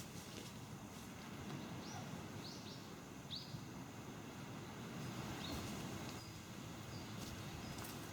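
Several short, high bird chirps, about five in the middle of the clip, over a steady low rush of sea waves.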